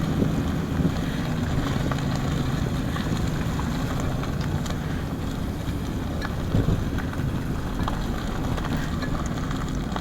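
Car driving slowly, heard from inside the cabin: a steady engine and tyre rumble, with a few small knocks and rattles over the rough road.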